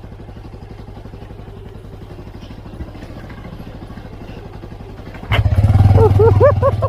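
A vehicle engine running steadily, with an even train of low firing pulses. About five seconds in, a much louder wavering, voice-like call with a rising-and-falling pitch comes in over it.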